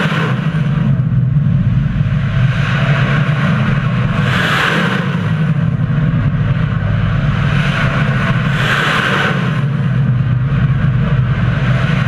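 Loud, steady, rumbling roar of a ship-launched cruise missile's motor, with a hissing rush that swells and fades every few seconds.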